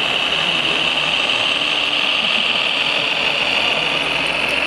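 Radio-controlled model vehicle running: a steady, even high-pitched whine over mechanical noise, with no let-up.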